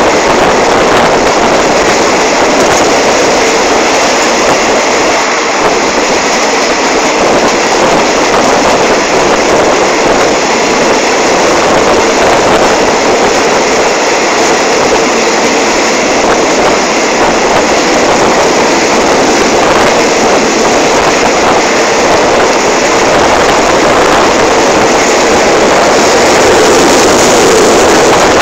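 Passenger train running at speed, heard from an open coach window: a loud, steady rush of wind and running noise with no break.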